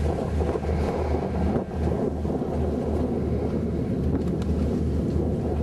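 Wind buffeting the microphone in uneven low thumps over a steady rush of noise.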